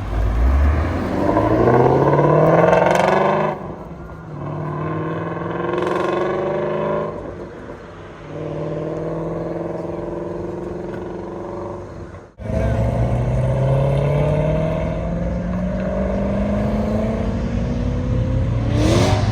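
Muscle car engines accelerating hard away, revs climbing, dropping suddenly on an upshift and climbing again. A second car pulls away with its revs rising steadily.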